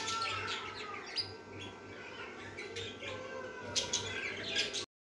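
Pet parrots chirping and tweeting in quick, short calls with scattered clicks, cutting off suddenly near the end.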